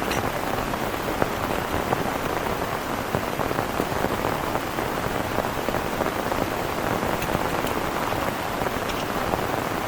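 Heavy rain falling steadily, a dense patter of countless drop hits.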